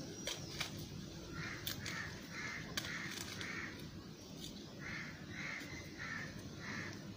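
A bird calling in two runs of about five short calls each, roughly half a second apart, the second run starting about five seconds in. A few sharp clicks sound between the calls.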